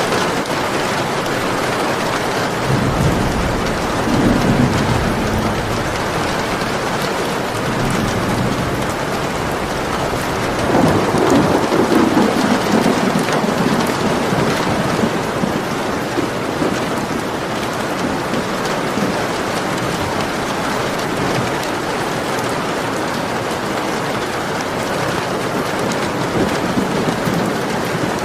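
Steady rain falling, with thunder rumbling twice: once about three seconds in and again, longer, around ten to fourteen seconds in.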